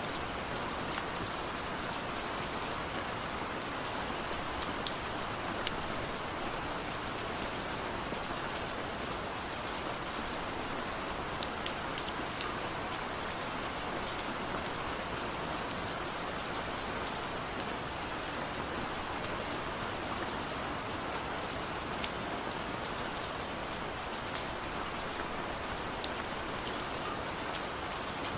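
Steady heavy rain falling and pattering on surfaces, an even hiss with many small drop ticks and no thunder.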